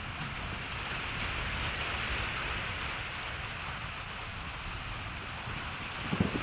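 Steady rain falling in a hiss, with a low, unsettled rumble underneath and a brief low thump near the end.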